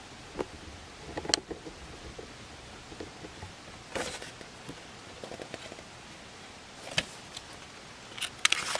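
Handling a picture book: a few scattered taps and rustles of paper pages being touched and turned, with a quick cluster of them near the end, over a faint steady hiss.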